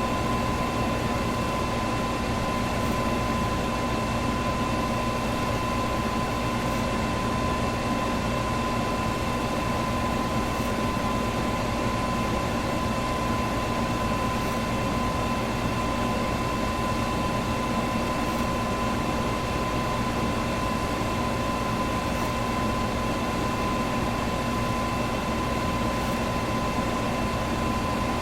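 Electric fan running steadily: an even rush of air with a constant hum and a thin steady whine on top, unchanging throughout.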